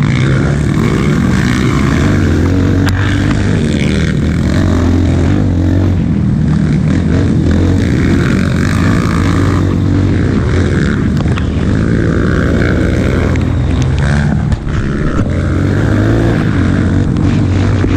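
Off-road motorcycle engine running hard while riding, its pitch rising and falling with the throttle, with a brief drop about three-quarters of the way through.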